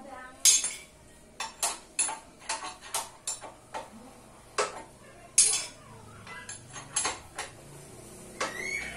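Metal tools and parts clinking and knocking at irregular intervals, about a dozen sharp strikes, during the stripping of a motorcycle rear wheel hub. A short rising squeak comes near the end.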